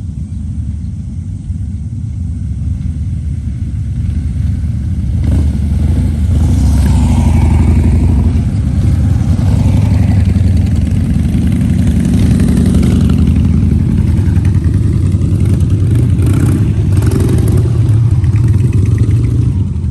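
Harley-Davidson V-twin motorcycle engine running with a deep rumble, getting louder about four to six seconds in as it revs up, then holding strong.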